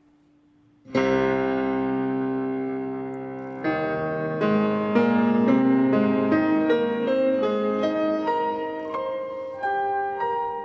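Solo classical piano music. It starts about a second in with a loud held chord that slowly fades, then moves into a line of single notes.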